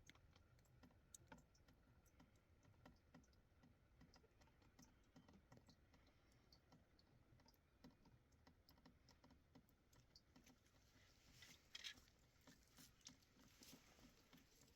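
Near silence with faint, scattered, irregular ticks and clicks, a few slightly louder near the end.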